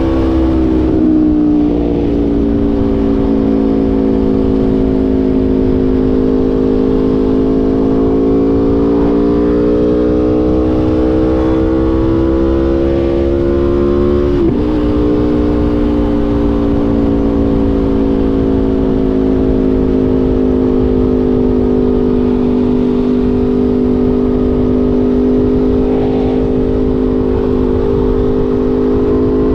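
Aprilia Tuono V4's V4 engine running steadily under load, its pitch slowly climbing and then dipping sharply about halfway through before settling at a steady note, over a constant low rush of noise.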